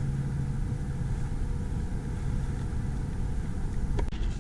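Wind rumbling on the microphone, with a faint steady low hum in the first half and one sharp click about four seconds in.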